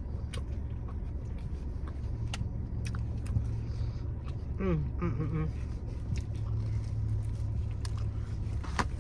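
Low steady rumble of a car idling, heard from inside the cabin, with scattered small clicks and a short hum of a voice about five seconds in.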